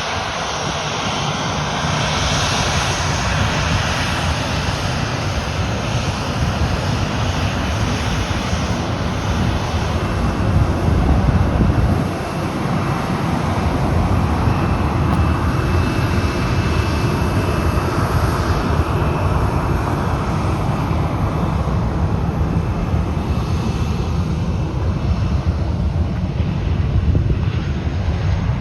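Boeing 737 airliner's jet engines running at taxi power as the plane taxis, a steady rumble with a jet hiss, loudest about eleven seconds in. A faint high whine runs through the middle stretch.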